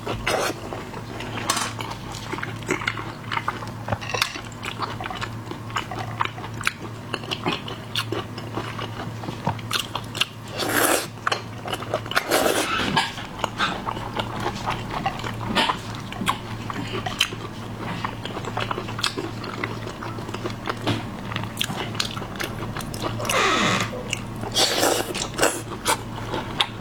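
Close-miked eating of shellfish: irregular crunchy bites and chewing through shrimp or lobster shell and meat, with a few longer noisy stretches about eleven seconds in and again near the end.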